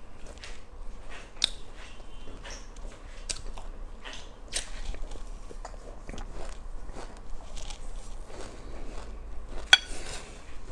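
A person chewing black sesame seeds: irregular crunching and small crackles, with one louder sharp click near the end.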